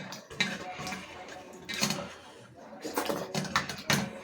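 Eating sounds: chewing, with short irregular clicks and knocks of hands and food against the plates, several times over.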